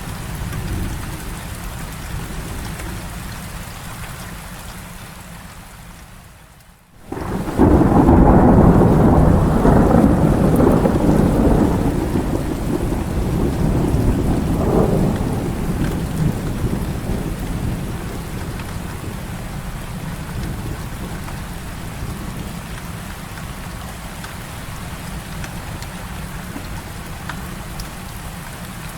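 Heavy rain falling steadily through a thunderstorm. About seven seconds in, a loud thunder rumble starts suddenly and rolls on, fading back into the rain over about ten seconds.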